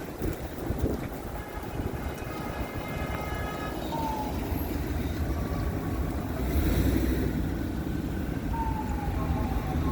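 Vehicle engines rumbling steadily in traffic. A horn sounds for about two seconds, starting about a second and a half in, and a siren begins to wail near the end.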